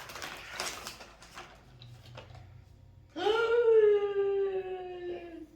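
Packaging rustling and tearing, then a long high wail held for over two seconds, slowly falling in pitch.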